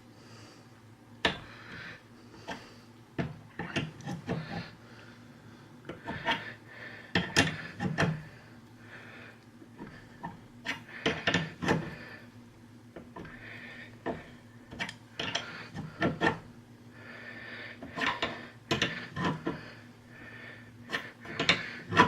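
A pipe tap cutting thread into an aluminum block, turned by hand with a wrench: irregular bursts of scraping and creaking in short strokes, broken by sharp metal clicks as the wrench is repositioned, with the loudest click near the end.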